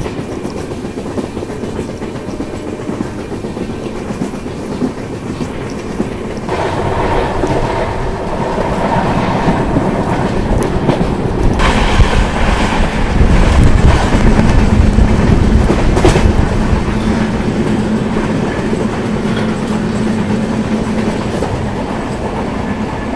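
Passenger train coaches running at speed, heard from an open door: a steady rumble of wheels on rails with occasional clicks over rail joints. The running noise grows louder and brighter about six seconds in.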